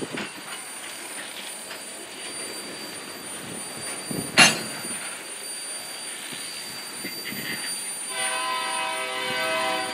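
Freight train hopper cars rolling slowly past at close range, with one sharp, loud clunk about four seconds in. From about eight seconds in, a sustained high ringing of several steady pitches at once sounds for roughly two seconds.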